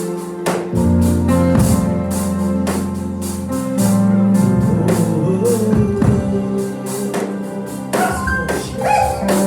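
Gospel church music: steady beat of drums and tambourine over sustained bass and keyboard chords, with some singing.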